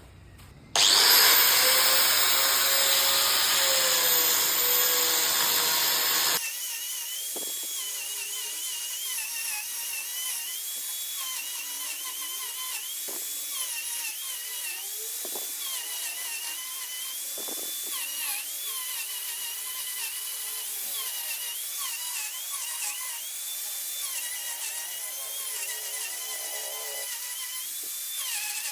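High-speed rotary power tool carving wood, with a high whine whose pitch repeatedly dips and recovers as the tool bites and eases off. A louder tool sound runs for about the first five seconds and cuts off abruptly.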